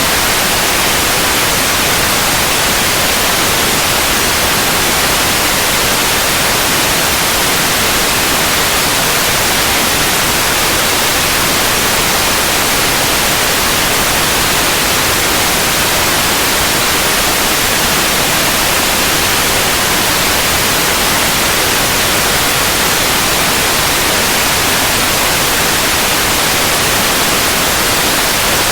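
Steady, loud white noise: an even hiss across all pitches, brightest in the upper range, with no change or break.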